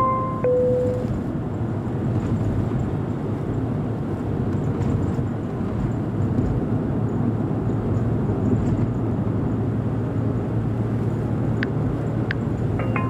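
Steady low rumble with a faint hum, like vehicle or traffic background noise, with two faint short clicks near the end.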